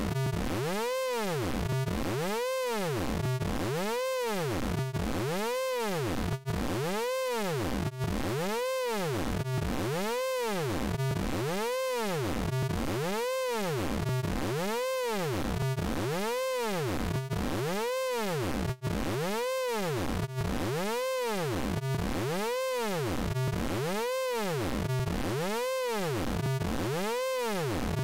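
Synthesized vocoder tone from the Orange Vocoder plugin. Its stack of harmonics warbles steadily up and down, a little more than once a second, with a few very brief dropouts.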